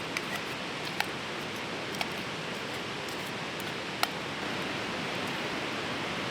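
Steady rushing of a fast river, with a few sharp pops from a wood campfire, about four over several seconds.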